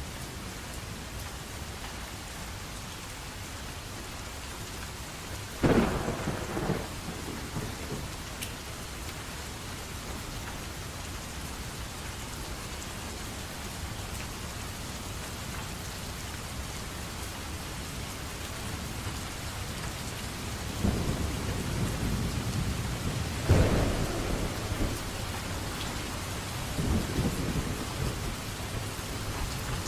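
Steady rain with thunder. A sudden crack comes about six seconds in and rumbles away over a couple of seconds, then a longer stretch of rolling thunder builds from about twenty seconds in, with its loudest clap a few seconds later and more rumbles near the end.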